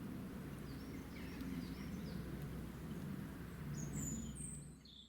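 Small birds chirping in short, high tweets over a low steady rumble of outdoor ambience, fading out at the end.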